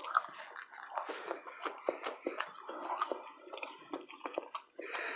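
A person chewing food close to the microphone: soft, wet mouth sounds with many small irregular clicks.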